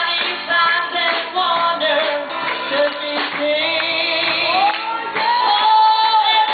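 A woman singing a gospel song over instrumental accompaniment, her voice wavering with vibrato and sliding into a long held note near the end.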